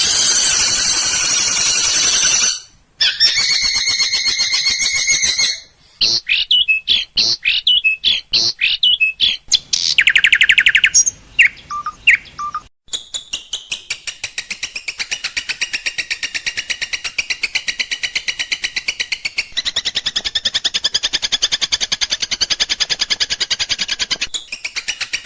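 Recorded songbird calls in spliced sections, used as training song for long-tailed shrikes. First come harsh buzzy calls, then a run of quick sweeping notes and a fast trill about ten seconds in. From about thirteen seconds on there is a long, rapid rattling chatter.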